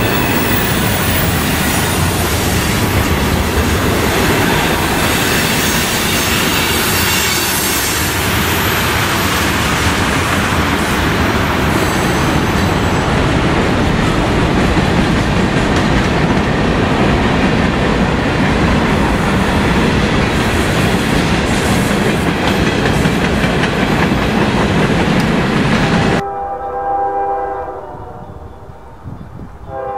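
Freight cars rolling past close by: a steady rumble and clatter of steel wheels on rail, with a faint wheel squeal early on. About 26 seconds in the sound cuts off abruptly. It gives way to a quieter scene where a train's air horn sounds, growing louder near the end.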